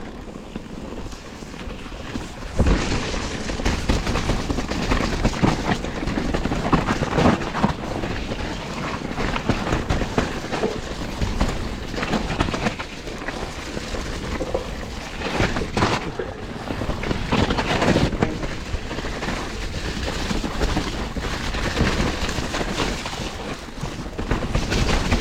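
Mountain bike riding fast over a rough, muddy trail: a dense, constant rattle and clatter of tyres, chain and frame over roots and rocks, getting louder about two and a half seconds in.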